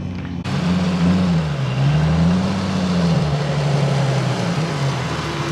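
Turbocharged Nissan VQ V6 drift car's engine revving up and falling back twice in a steady wave, with a loud rushing noise over it that starts suddenly about half a second in.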